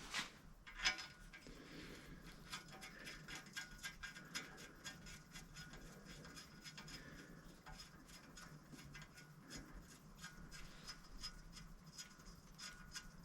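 Mostly quiet, with many faint small clicks and taps scattered throughout and two louder clicks in the first second.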